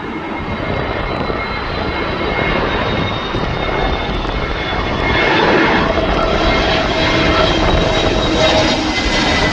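Airbus A320's twin turbofan engines on approach: a steady jet noise with thin whining tones, growing louder as the aircraft comes closer.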